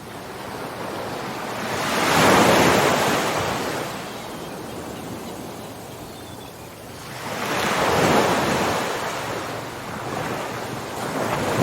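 Ocean surf: two big waves surge in and die away about six seconds apart, with a third, smaller one building near the end.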